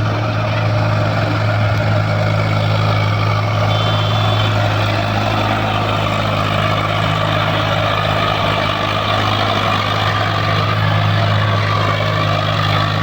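Heavy diesel engine running steadily at constant speed, without revving up or down.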